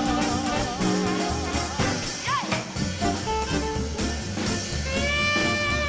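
Swing band playing an instrumental passage, with horns over drum kit and a walking upright bass. A short swooping glide in pitch comes about two seconds in.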